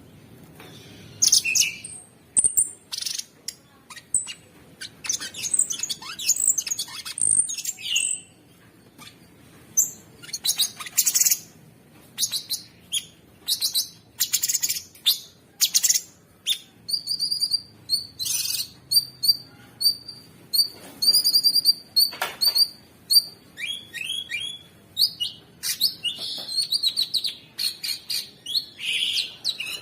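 Cucak sungkok singing a long, rapid run of harsh, high chirps and trills, with brief pauses between bursts.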